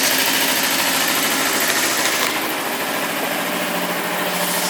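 A 2009 Kawasaki Ninja EX250R's 250cc carbureted parallel-twin engine idling steadily just after starting.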